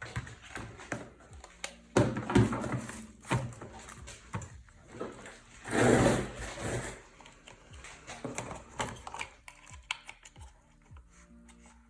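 Irregular clicks, knocks and rustles from handling small plastic parts and coin-cell batteries while they are fitted into a welding mask's battery compartment, with a louder rustle about six seconds in.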